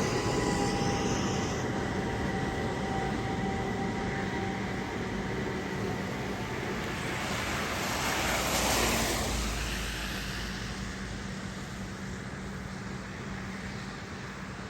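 Haga–Utsunomiya LRT light rail tram running, a steady rumble with faint whining tones. Its noise swells briefly about halfway through, then gradually fades.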